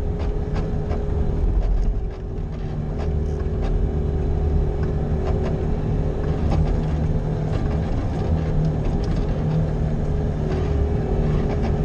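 Bobcat skid-steer loader engine running steadily under load while plowing snow, with a steady whine over the engine note and scattered faint clicks.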